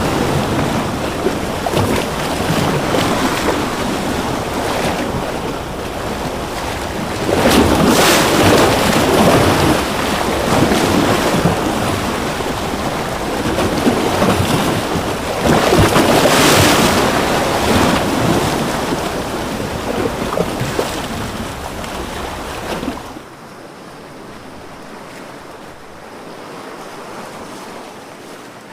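Ocean waves breaking and washing on a shore in a steady rush, with two louder surges as bigger waves break. About three-quarters of the way through, the sound drops suddenly to a quieter, softer wash.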